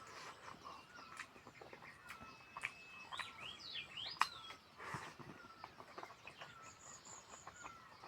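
Faint bird calls: a short falling chirp repeated about once a second, with a quick run of rising whistled notes about halfway through, among scattered light clicks and taps.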